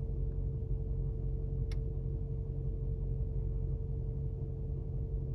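Steady low hum inside the G63's cabin, with a constant tone above it, and a single sharp click, like a console button being pressed, a little under two seconds in.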